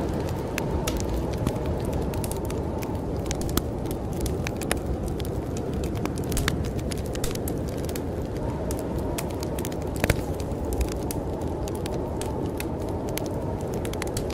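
Wood fire in a fireplace crackling with irregular sharp pops, the loudest about ten seconds in, over a steady low rush of storm wind.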